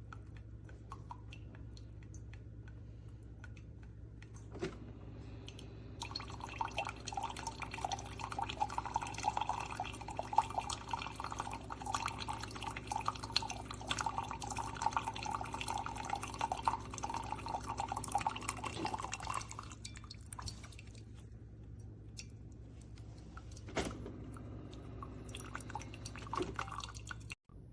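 Water pouring into the coffee maker's removable water reservoir, filling the tank, from about six seconds in until about nineteen seconds in. A steady low hum runs underneath.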